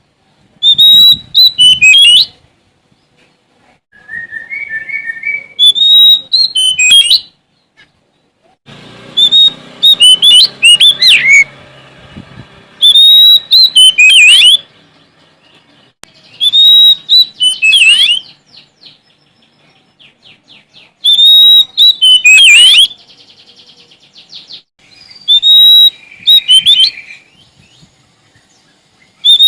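Sumatran oriental magpie-robin (kacer) singing loudly and hard: a phrase every few seconds, each opening on a clear whistled note and breaking into quick sweeping, varied notes, with a fast rattle between some phrases.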